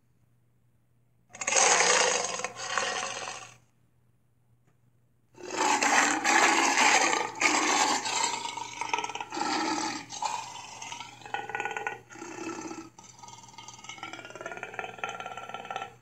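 Cartoon dinosaur roar sound effects of the Allosaurus (Sharptooth): one roar of about two seconds, a short pause, then a longer string of roars that trail off in wavering pitch near the end.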